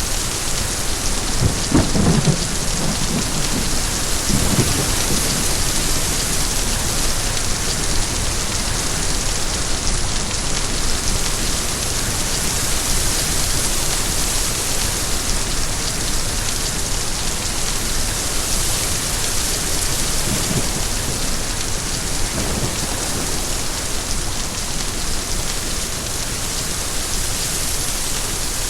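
Steady rain falling, with low rolls of thunder: one in the first few seconds and a fainter one about two-thirds of the way through.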